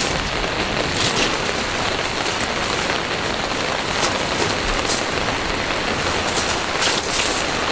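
Heavy rain falling steadily on a surface, with a few louder close drop hits now and then.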